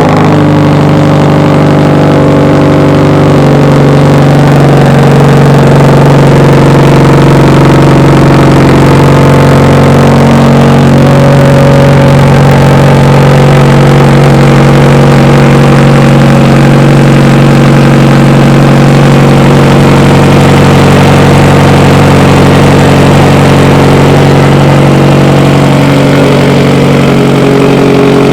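2015 Subaru WRX STI's turbocharged 2.5-litre flat-four idling steadily and loudly through a straight-piped Tomei exhaust with a catless downpipe.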